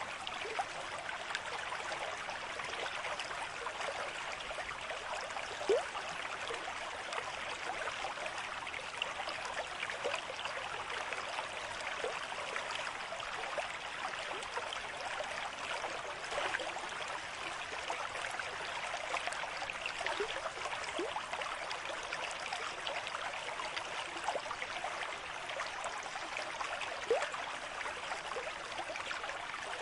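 Water running in a small stream: a steady babble with scattered short gurgles, two slightly louder ones about six seconds in and near the end.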